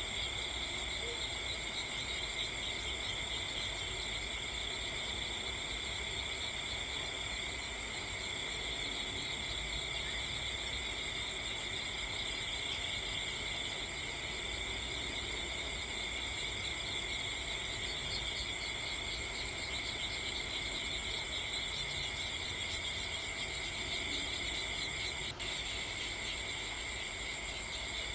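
A steady chorus of insects trilling without a break, with a single sharp click near the end.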